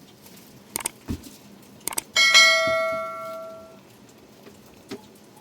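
A metal object struck once, ringing with a clear bell-like tone that fades away over about a second and a half, after a few light knocks.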